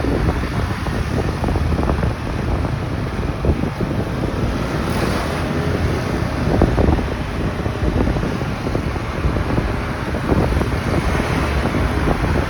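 Wind rushing over the microphone of a moving motorcycle, a steady low rush with the bike's running and road noise underneath.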